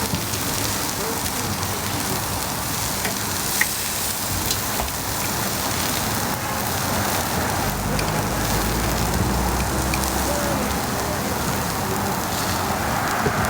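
Steady sizzling hiss of a pancake frying in oil on a street-stall griddle, with a few faint clicks and a low rumble partway through.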